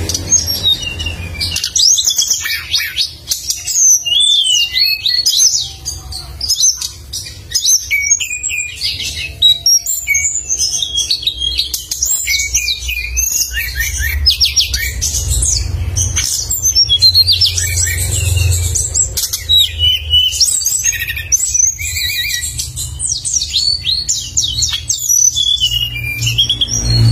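A songbird singing continuously and energetically, a fast unbroken stream of sharp, high chirps and trills, over a steady low hum.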